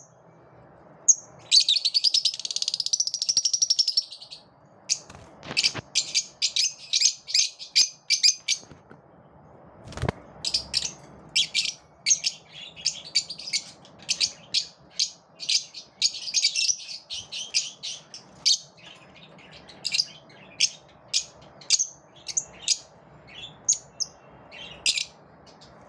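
Lovebirds chirping in quick runs of short, high-pitched calls, with a couple of seconds of continuous rapid chatter near the start.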